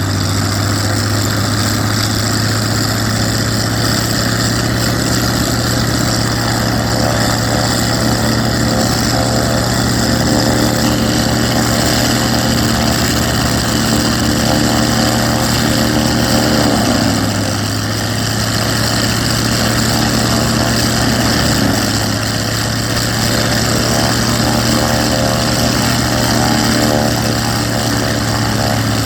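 Hawker Sea Fury's radial piston engine running steadily during a ground test run, with a brief dip and shift in revs about two-thirds of the way through.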